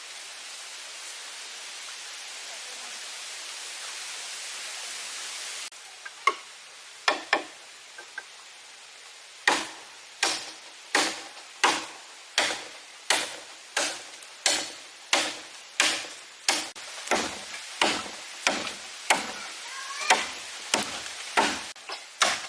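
An even, rain-like hiss cuts off abruptly about six seconds in. Then a blade starts chopping on a wooden surface: a few scattered strokes at first, then a steady rhythm of about one to two chops a second.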